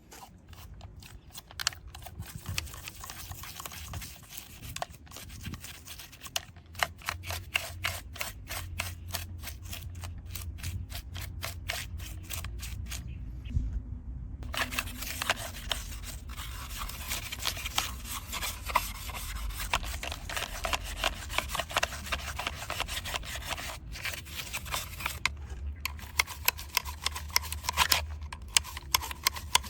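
Close-up rubbing, scraping and many small rapid clicks from hands cleaning a small diecast model truck. There is a brief pause about halfway through, then a denser stretch of scrubbing.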